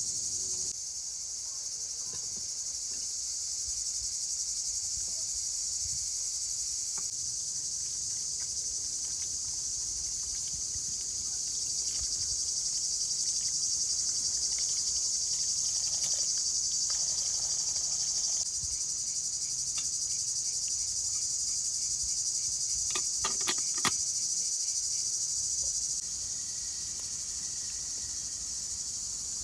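Steady, high-pitched chorus of insects in the forest, its loudness stepping up or down abruptly at a few points. A quick run of sharp knocks comes about 23 seconds in.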